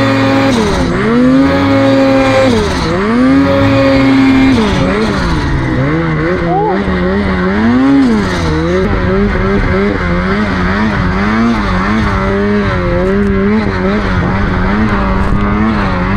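Snowmobile engine running hard at high revs, dropping and climbing back twice, then running at lower revs that rise and fall quickly with the throttle.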